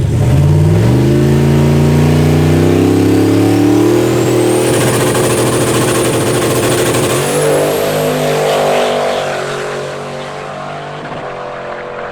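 Turbocharged Ford fox body Mustang's 347 cubic inch Dart small-block V8 launching hard on a drag run, the engine note climbing steadily with a high turbo whistle rising over it from a Borg Warner 81mm turbo. About seven seconds in the engine note changes, and then the sound grows fainter as the car pulls away.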